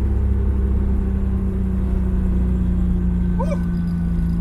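Turbocharged 1JZ inline-six in a Lexus LS400 running steadily off the throttle, its drone sagging slightly in pitch. A short chirp sounds about three and a half seconds in.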